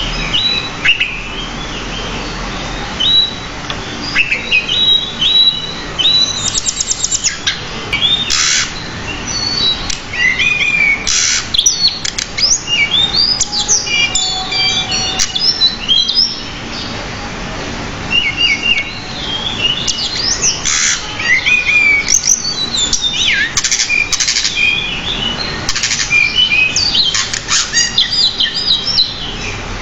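Pied bushchat singing a long, varied song of short rising and falling whistles, chirps and rapid trills, in quick phrases with brief pauses.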